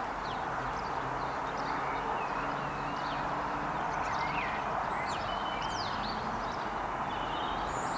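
Small birds chirping and warbling repeatedly over a steady outdoor background hiss, with a faint low hum underneath.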